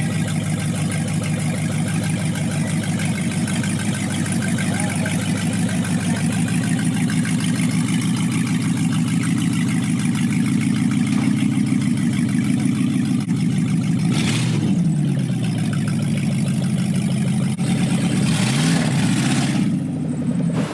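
Car engine with a Stage 3 camshaft idling with a rhythmic, pulsing lope, revved briefly about two-thirds of the way in and again near the end.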